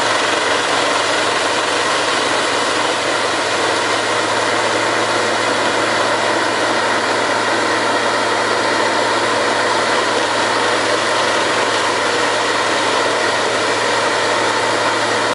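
Vantec 1000 R10 forestry wood chipper running steadily, a loud, even machine noise with a constant low engine hum.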